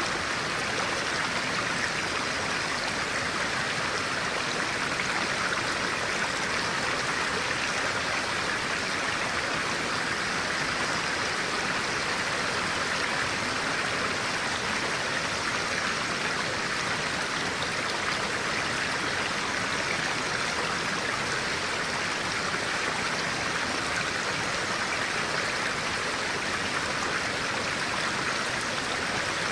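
Stream of clear water flowing over rocks, a steady rushing and babbling.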